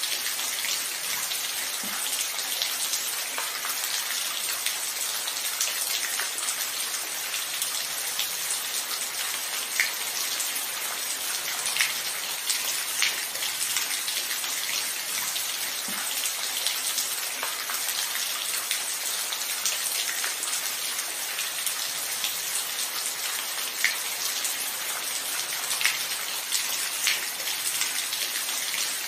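Steady rain falling, an even hiss with individual drops ticking sharply every few seconds.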